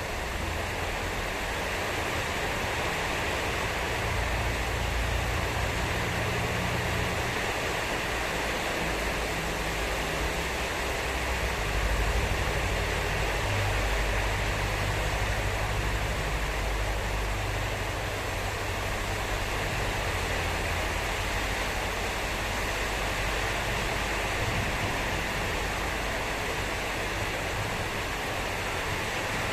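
Heavy rain pouring steadily in a strong windstorm, with gusts of wind rumbling on the microphone that swell and ease.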